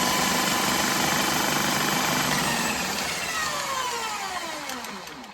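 Drill spinning a Husky hand-snake drum attachment, feeding the drain cable, with a steady motor whine. About three seconds in, it begins slowing, its pitch falling as it winds down.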